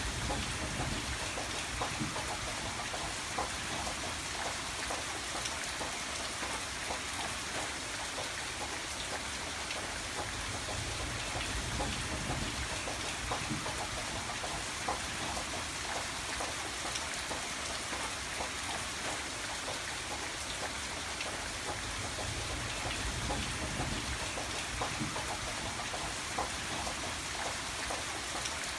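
Steady rain falling, an even hiss of rain dotted with many small individual drop ticks.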